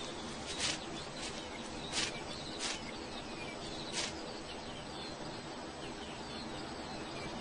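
A bird calling outdoors: about five short, sharp high notes in the first four seconds, with a few fainter chirps, over a steady background hiss.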